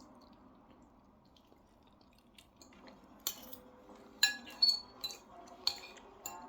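Cutlery clinking against plates and bowls while eating: a quiet stretch, then about six sharp clinks from about three seconds in, some with a short ringing tone.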